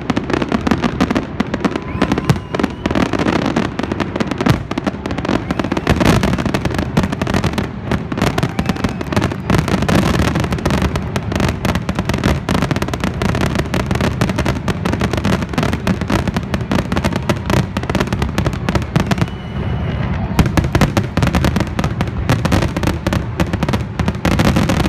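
Fireworks finale: a dense, nonstop barrage of shell bursts and crackling, with a brief lull just before the last few seconds.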